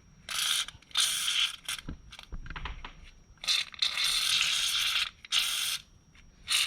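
White lithium grease aerosol can sprayed onto a garage door pulley's ball bearing: a run of short hissing bursts, the longest about a second long past the middle, with a few faint clicks between them.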